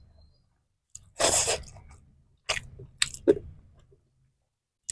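A person chewing and crunching food close to the microphone: a loud crunching bite about a second in, then a few shorter crunchy chews.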